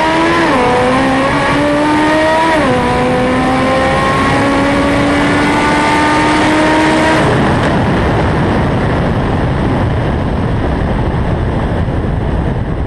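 Car engine at full throttle on a drag-strip pass, its pitch climbing and dropping at two upshifts, about half a second and two and a half seconds in, then rising steadily in top gear. About seven seconds in the engine note cuts off as the driver lifts at the finish, leaving wind and road noise as the car coasts down.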